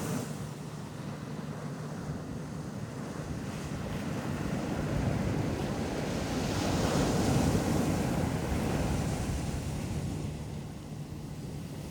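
Ocean waves washing onto a beach, one surge building to its loudest about seven seconds in and then drawing back. Wind rumbles on the microphone.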